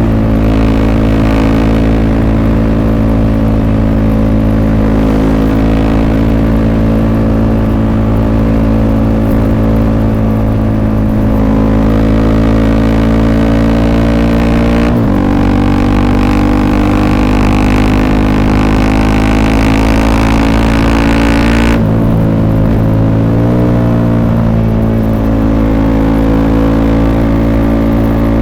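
Honda CRF300L's single-cylinder engine through an FMF Q4 exhaust, running at a steady cruising speed. The engine note shifts about halfway through and again about three quarters of the way in, where the higher tones drop away and the pitch wavers briefly.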